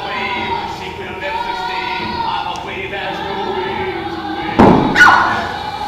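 Choral music with sustained, held voices. Near the end, a loud thump, followed at once by a second loud sound that falls in pitch.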